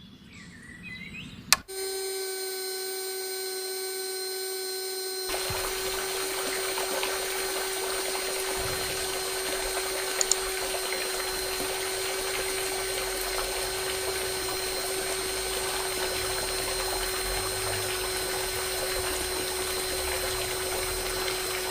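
A click, then the small electric motor of a homemade toy water pump starts with a steady whine. About five seconds in, water starts pouring and splashing alongside the motor as the pump delivers water.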